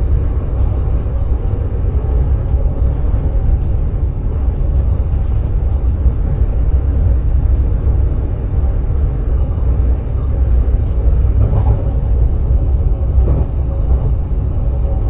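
Electric sprinter train running along the line, heard from the driver's cab: a steady low rumble with a few faint ticks from the track.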